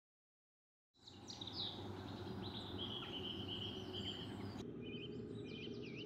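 Silence for about a second, then several wild birds chirping and trilling over a faint steady low background noise; near the end one bird repeats a short dipping note several times.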